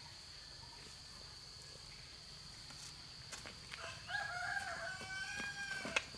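A rooster crowing once, a single call of about two seconds starting about four seconds in, over a steady high insect-like drone.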